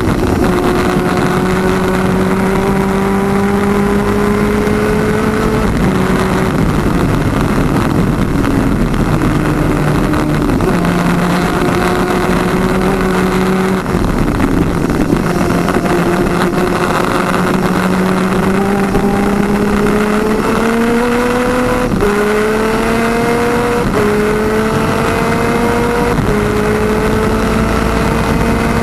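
Twin-cylinder 250cc two-stroke superkart engine at race speed. Its pitch climbs through each gear and drops sharply at each shift, with several quick shifts in the second half, over heavy wind rush.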